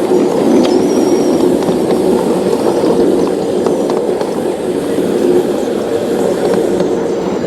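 Model train running along the layout's track: a steady rumble of wheels and motor with faint clicks, and a brief thin wheel squeal about half a second in.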